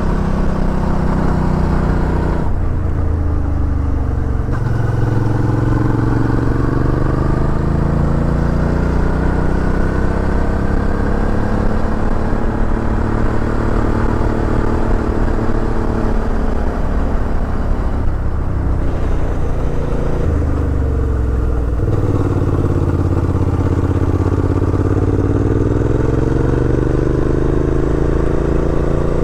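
Suzuki V-Strom 650 XT's V-twin engine running as the motorcycle is ridden, its pitch falling sharply a couple of seconds in and again about three-quarters through, then climbing again as the throttle opens.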